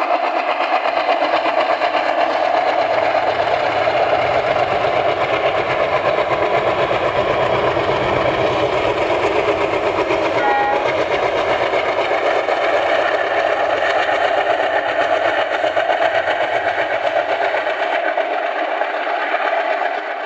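ALCO diesel locomotive engine chugging hard, a loud rapid pulsing exhaust beat that runs on steadily, with a brief short high tone about halfway through.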